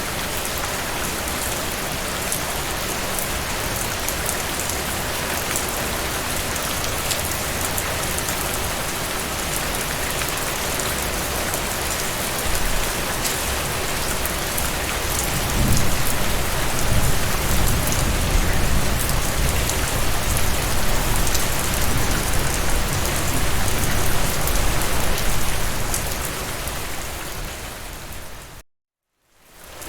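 Steady rain falling on a surface, an even hiss of drops. About halfway in a low rumble swells up under the rain, lasts about ten seconds and fades away. Near the end the sound cuts out completely for about half a second, then returns.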